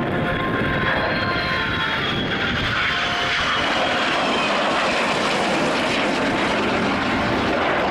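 Aircraft engines of a display aircraft passing overhead: a loud, steady roar with a faint high whine that falls slowly over the first few seconds.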